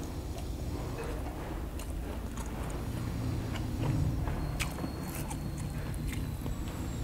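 Close-up chewing and biting of grilled skewered meat, with scattered small mouth clicks.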